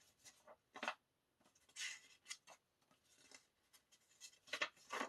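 Faint rustling and light taps of paper and card being handled, in short irregular bursts, with the loudest near the end.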